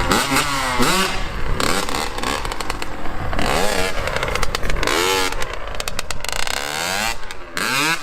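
Two-stroke dirt bike engine revving up and dropping back again and again, its pitch rising and falling about once every second or so.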